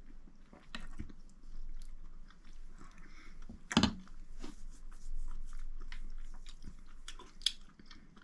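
A person chewing and eating a soupy rehydrated Mountain House stroganoff-style meal close to the microphone, with small wet mouth noises and clicks. A single sharp knock about four seconds in.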